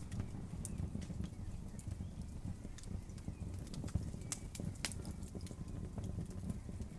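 Wood campfire crackling, with irregular sharp pops and snaps over a low steady rush of burning.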